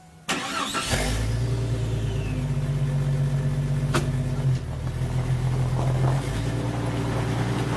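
A Jeep's engine starts about a third of a second in and then idles steadily, with a single sharp click about four seconds in. It is running to jump-start a car whose battery is too dead to crank it.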